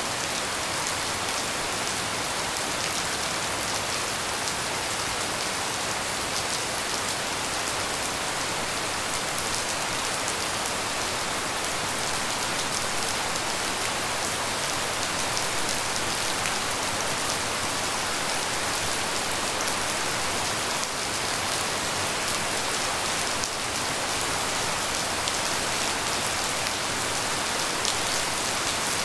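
Steady tropical rain falling and pattering on surfaces, an even hiss with fine drop ticks and no thunder.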